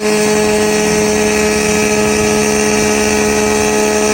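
Fire engine's diesel engine running steadily, with a constant droning hum that neither rises nor falls.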